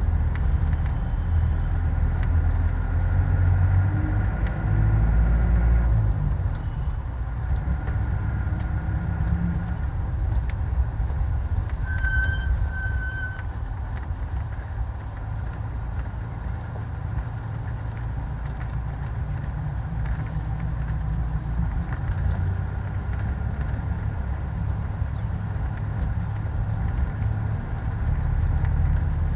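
Steady low rumble of a motor vehicle on the move, with a brief high double beep about twelve seconds in.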